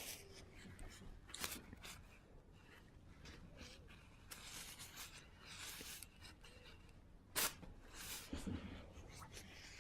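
Faint, irregular rustling and crinkling of a paper tissue being batted and pawed by a cat, with one louder sharp crackle about seven seconds in.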